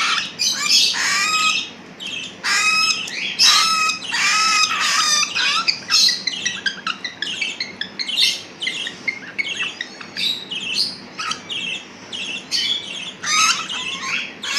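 Pet cockatiels and budgies calling: a rapid run of short, harsh squawks and chirps, dense at first, sparser in the middle and picking up again near the end.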